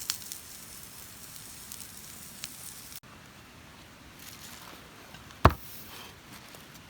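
Campfire crackling with food sizzling over it, a few small pops in a steady hiss; after an edit about three seconds in it is quieter, and a single sharp crack sounds about two and a half seconds later.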